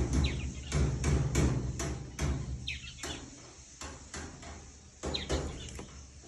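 Sharp knocks with a low thud, about two or three a second, getting fainter toward the end, with birds chirping now and then.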